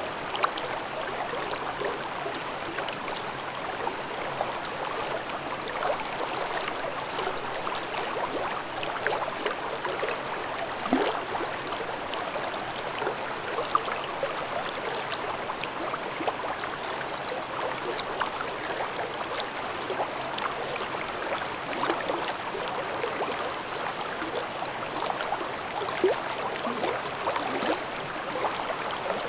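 Mountain stream babbling over rocks in a gorge: a steady rush of water dotted with many small gurgles and splashes.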